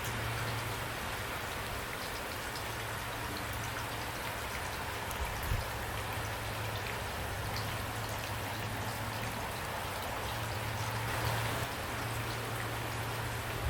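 Steady rain falling, an even hiss with scattered drop ticks over a low steady hum, and a couple of small knocks about five seconds in.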